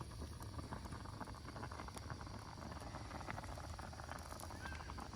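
Pot of meat stew boiling on the fire: a steady, dense patter of small bubbling pops.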